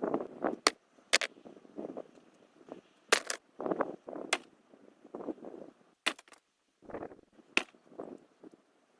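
Irregular sharp knocks and cracks, about six, interleaved with short rustling, scraping noises of something being handled.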